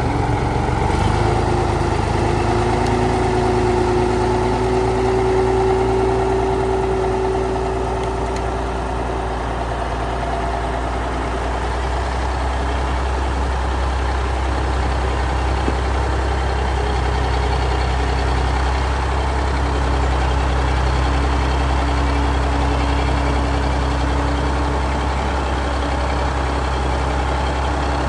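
Heavy log truck's engine running steadily, its low drone shifting a little about twelve seconds in.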